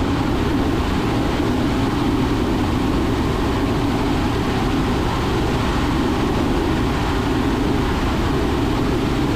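Steady cabin noise of a 2005 Robinson R44 Raven II helicopter in cruise flight: the main rotor and the six-cylinder Lycoming piston engine running evenly, heard from inside the cockpit as a constant low hum.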